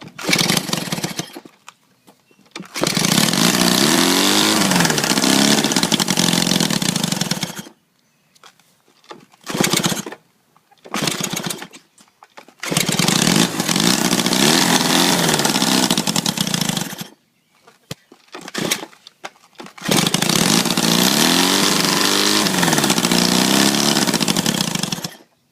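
Honda CB125 motorcycle engine on a go-kart, breathing through custom exhaust pipes with washers inside for back pressure, running in three loud stretches of about four to five seconds each with the revs going up and down. Between the stretches the sound drops to near silence, broken by a few short bursts of about a second.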